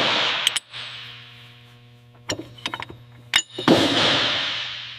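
Workshop sounds of metal being worked: sharp metallic clanks and clinks. There are two loud hissing bursts, at the start and near the middle, that each fade away slowly, over a steady low machine hum.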